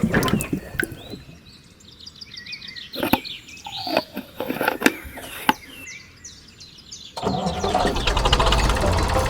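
Birds chirping in short rising and falling calls, with scattered clicks. About seven seconds in, a steady engine-like running noise starts.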